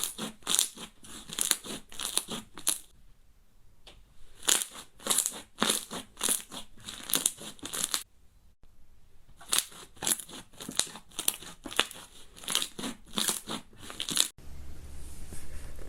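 Crunchy slime being pressed and squeezed by hand, making quick runs of crisp crackling pops with two short pauses. Near the end it cuts off abruptly to a quieter clip with a low hum.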